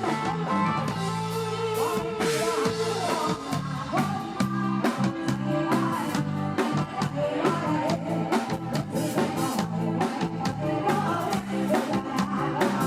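Live band music, led by electric guitar over a drum kit.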